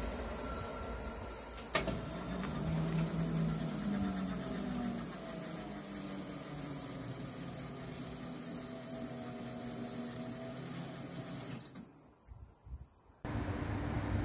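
Passing train running with a steady rumble and faint, slowly shifting low tones, with a single sharp click about two seconds in. The sound cuts off abruptly near the end.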